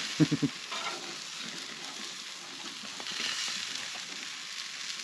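Food frying in a hot pan: a steady sizzling hiss with fine crackles, swelling a little about three seconds in.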